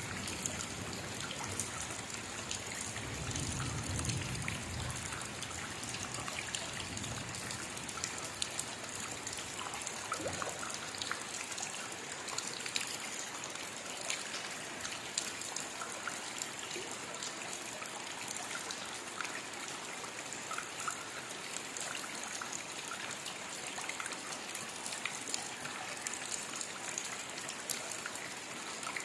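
Steady rain, with many individual drops ticking through a continuous hiss, and a brief low rumble about four seconds in.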